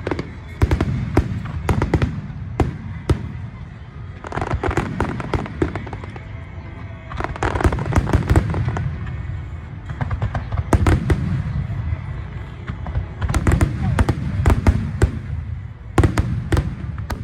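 Fireworks display: aerial shells bursting in volleys of sharp cracks and crackles every few seconds, over a constant low rumble of booms.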